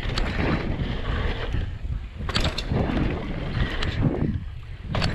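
Wind rushing over the microphone of a camera riding on a mountain bike on a dirt jump trail, with sharp knocks and rattles from the bike over the bumps.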